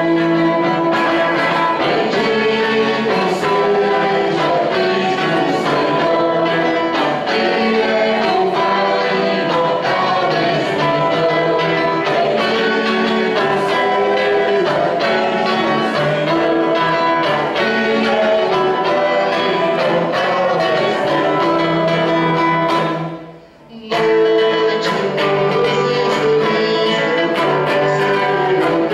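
Church music at Mass: voices singing a hymn with guitar accompaniment. It breaks off briefly about three quarters of the way through, then carries on.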